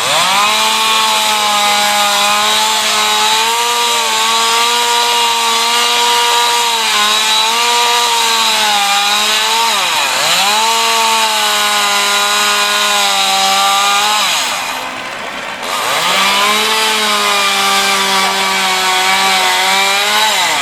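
Chainsaw held at high revs in long steady runs while cutting wood. It drops back and revs up again about halfway through, then is released for about a second and revved back up.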